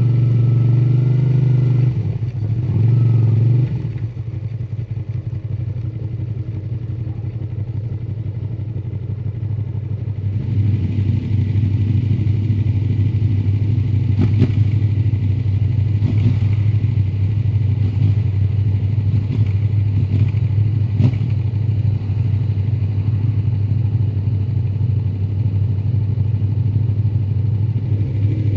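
Honda VTR250's 90-degree V-twin through its stock muffler, revving up and down for the first few seconds, then running quieter and steady. From about ten seconds in it runs louder and steady, with a few sharp clicks.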